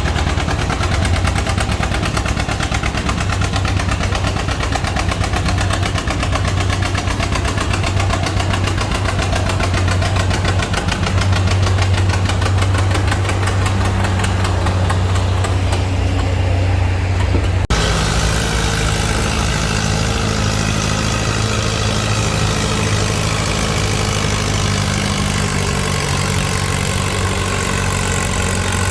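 Antique tractor engines running: first one with a rapid, dense exhaust beat, then, after an abrupt change about two-thirds of the way through, an engine running more evenly.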